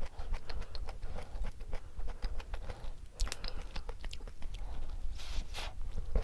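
Close-miked chewing and biting of a large, thick black sesame and sweet potato cookie, with many small crumbly crunches and wet mouth clicks. A brief, louder crackle comes about five seconds in.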